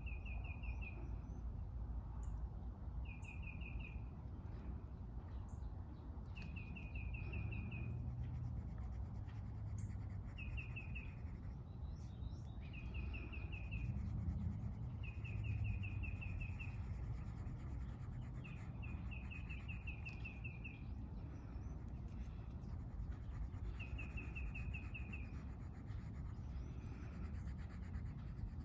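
A songbird repeatedly singing short, fast trills of identical notes, about a second each and a couple of seconds apart, over a steady low outdoor rumble. Faint scratching of coloring strokes on paper runs underneath.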